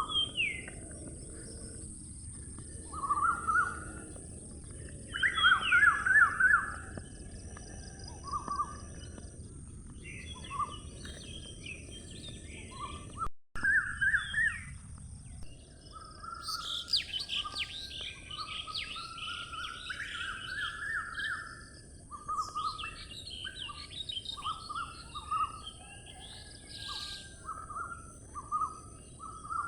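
Several songbirds chirping and singing in short, overlapping phrases, busier in the second half, over a steady high hiss.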